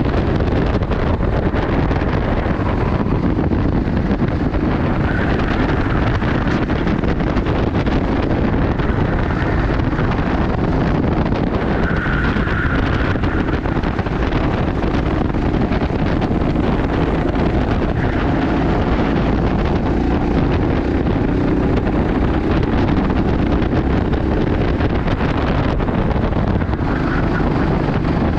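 Go-kart engine running at racing speed under heavy wind noise on the microphone, steady throughout.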